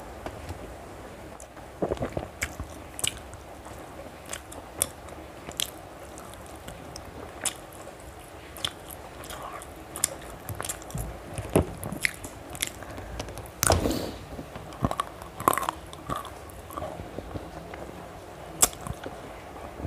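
A person chewing and biting food eaten by hand, with irregular sharp mouth clicks and smacks, a louder cluster about two-thirds of the way through.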